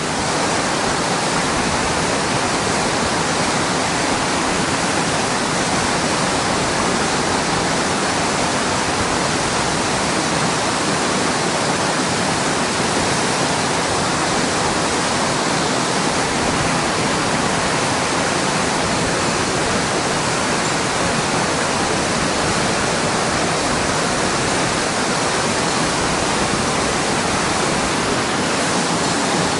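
Mountain stream rushing: a steady, loud water noise.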